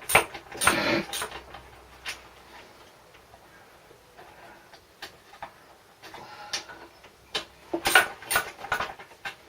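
Metal clicks and rattles of hand tools working on a lawn mower engine's recoil starter: one cluster at the start and another near the end, with a quieter stretch between.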